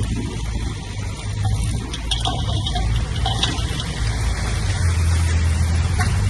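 Heavy diesel earthmoving machinery running steadily at a low rumble, with occasional metallic clanks.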